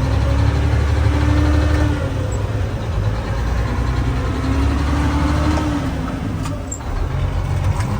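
Cummins M11 inline-six diesel engine of a 1998 Freightliner dump truck running steadily with a low rumble.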